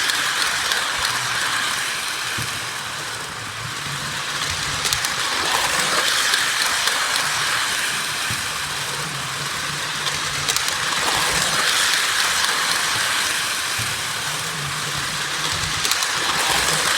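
Toy Polar Express train set running around its track: a steady whir and rattle of the motor and wheels with small clicks, growing louder and softer about every five seconds as the train circles past.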